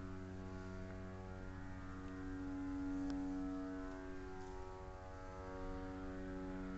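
Low steady droning hum made of several held pitches, swelling louder about two seconds in and easing off again a couple of seconds later.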